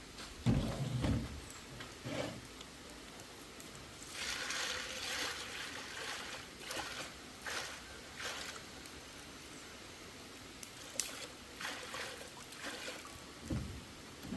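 Water trickling and splashing as vegetables are rinsed by hand, with a few low knocks about half a second in.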